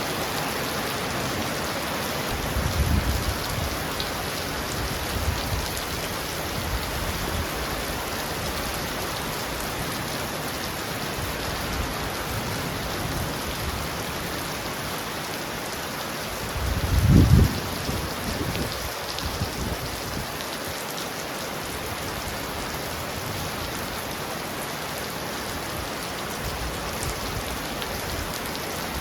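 Heavy rain pounding on a roof: a steady, even hiss. There are brief low rumbles about three seconds in and a louder one around seventeen seconds.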